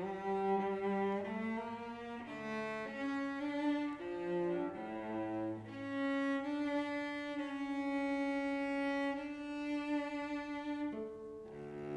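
Slow music on cello, bowed notes changing every second or so, then one long note held for about five seconds from around the middle.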